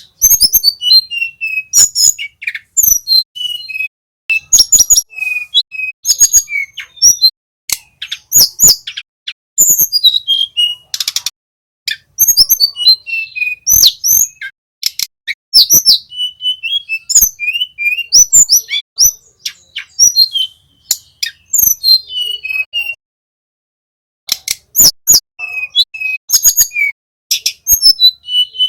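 Small songbird singing: rapid high chirps and short whistled notes that slide downward, in quick runs with sharp clicks among them, and a pause of about a second near the end.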